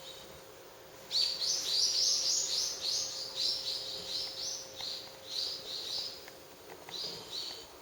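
A bird calling: a long run of short, repeated high chirps, about three a second, starting about a second in and growing weaker toward the end.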